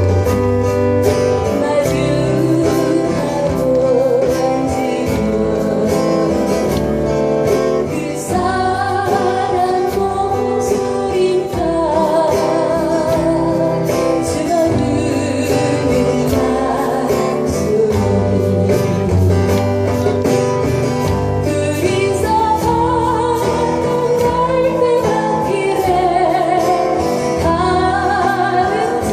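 A live band plays a song with acoustic guitar and a steady beat. A singer comes in about eight seconds in and holds notes with vibrato.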